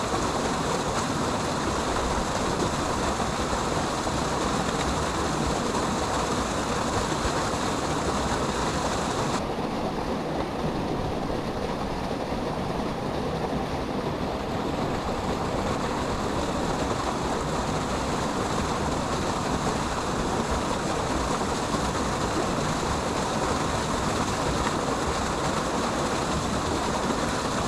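Steady rush of water from a waterfall. Its hiss dulls for a few seconds about a third of the way in, then comes back.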